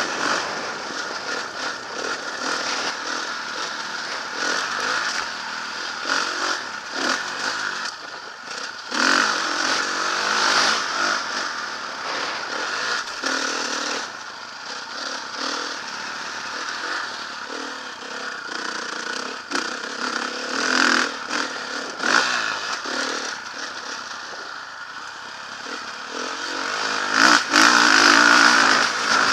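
Motocross bike engine revving up and easing off over and over as it rides the track, with clattering and scraping; it gets loudest near the end.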